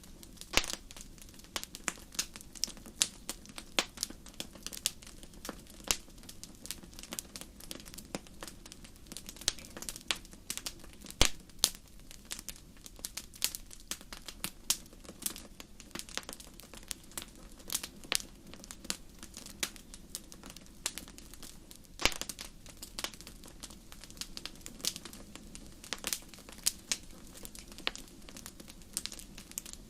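Fire crackling in a fireplace: irregular sharp pops and snaps, a few louder ones standing out, over a steady low background.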